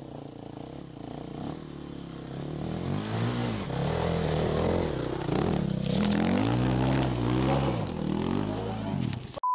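Dirt bike engine revving up and down over and over, faint at first and louder from about three seconds in.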